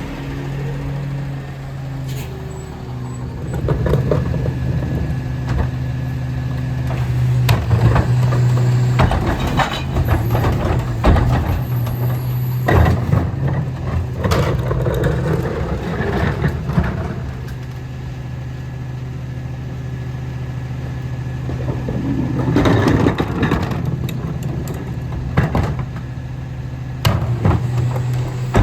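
Autocar ACX rear-loader garbage truck's engine running at a steady speed, with repeated clanks and knocks of metal and plastic as the truck is worked.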